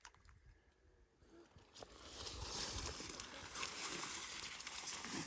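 Footsteps and rustling through wet brush and grass, starting about two seconds in and going on as a steady crackly swish.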